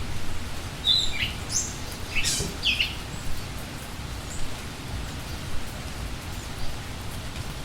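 Steady rain with a few short, high bird chirps about one to three seconds in.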